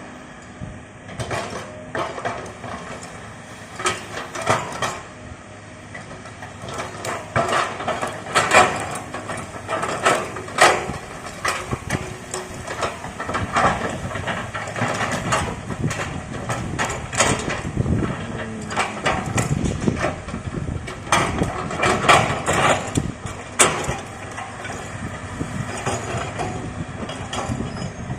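Excavator's diesel engine running steadily under work, with frequent metallic clanks and knocks from the working machine, in clusters.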